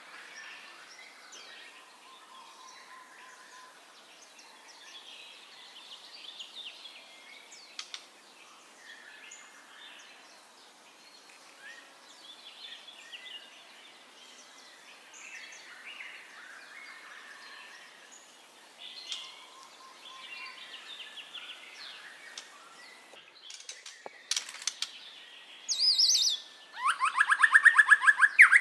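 White-rumped shama (murai batu) singing. Quieter varied whistles and chirps run through most of it, then a loud, fast rattling run of repeated notes near the end.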